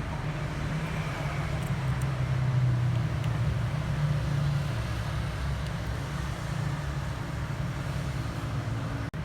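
Steady low mechanical hum with a faint noisy background; the pitch drifts slightly, and it dips out briefly near the end.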